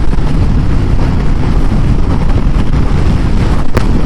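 Steady wind rush on the microphone from a Honda CB500X motorcycle cruising at about 100 km/h, with its engine and the road noise running underneath. A single short click comes near the end.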